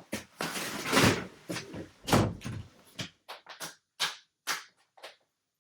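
A clatter of knocks and scraping: a longer rush of noise about a second in, then a run of short knocks that get quieter and sparser and stop near the end.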